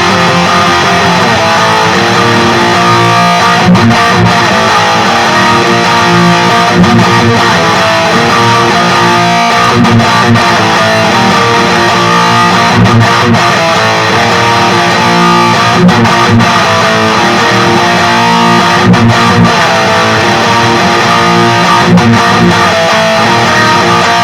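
Distorted electric guitar with active pickups, played through the Peavey Vypyr 15's XXX high-gain amp model: loud, steady riffing with sharp note attacks.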